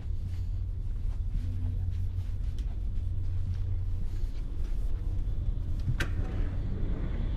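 Steady low rumble of a Swiss double-decker passenger train running, heard from inside the carriage, with a single sharp click about six seconds in.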